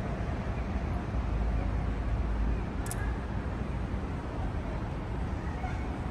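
Steady outdoor city noise: a low rumble of traffic, with a few faint clicks.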